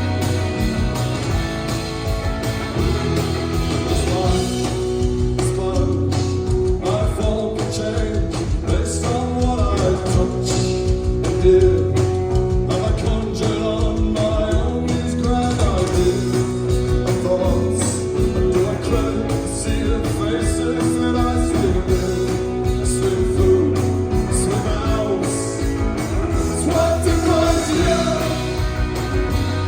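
Rock band playing live, with a singing voice over guitars and a steady beat.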